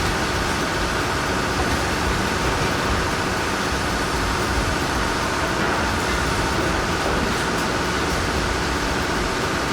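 Heavy diesel machinery running steadily: an unbroken engine rumble with a constant rushing noise, with no rise or fall in level.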